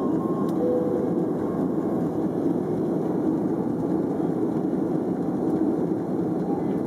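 Steady cabin roar of an Airbus A330-300 climbing after takeoff: engine and airflow noise heard from inside the passenger cabin.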